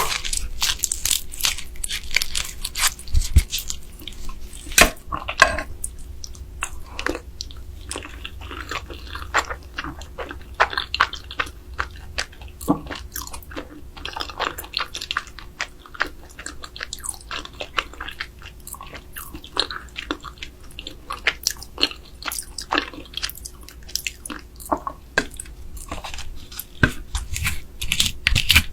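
Close-up eating sounds of raw spicy marinated crab (yangnyeom gejang) being bitten and chewed: irregular crunches and clicks of shell being cracked between the teeth, mixed with wet chewing.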